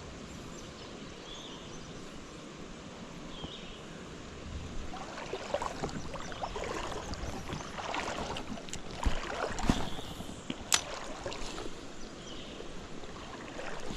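Creek water running steadily. From about five seconds in there is irregular rustling and knocking close by, with a few sharp clicks.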